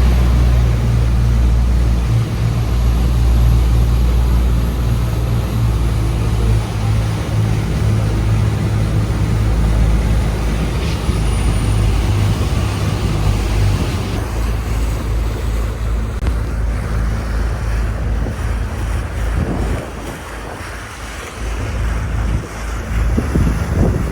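Charter fishing boat's inboard engine running steadily under way, a deep hum under the rush of water and wind. Wind buffets the microphone in gusts near the end.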